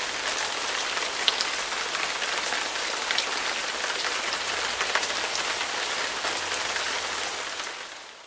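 Rain falling steadily, with scattered sharper drop hits. It fades out near the end.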